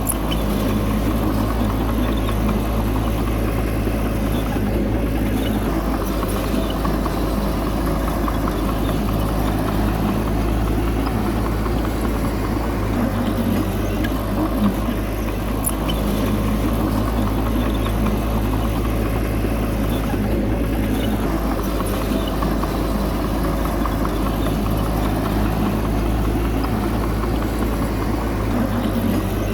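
Diesel engine of heavy earthmoving machinery running steadily at a constant low drone, with no change in pace.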